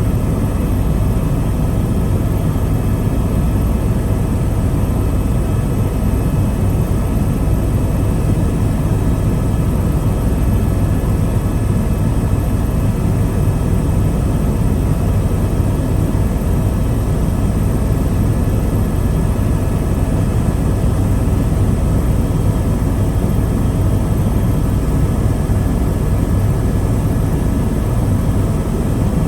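Helicopter in level flight: a steady, loud drone of engine and rotor with thin, steady whining tones above it, unchanging throughout.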